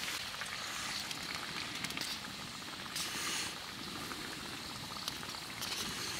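A pot of beef stew simmering over a campfire: a steady low hiss with many small bubbling pops, and a brief louder hiss about three seconds in.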